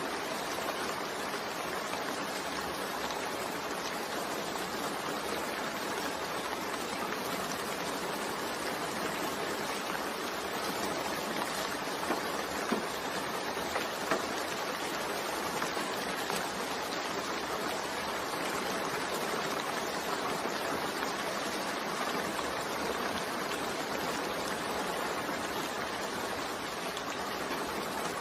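Steady rain mixed with white noise: an even hiss of falling rain with an occasional faint drop tick.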